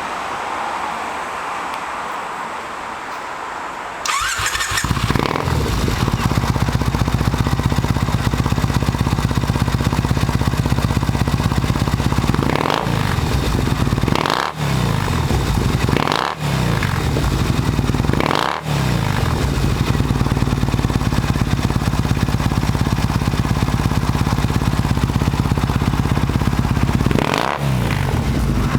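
Triumph Bonneville motorcycle engine breathing through a slip-on trumpet muffler: it starts about four seconds in and settles into a steady idle. It is revved briefly four times, about two seconds apart, then idles again, with one more rev near the end.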